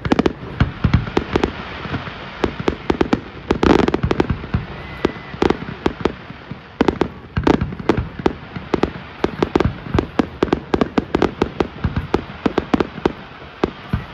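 Aerial fireworks bursting in quick succession: a dense barrage of sharp bangs, several a second, with crackle between them. Heavier booms come about four seconds in and again past halfway.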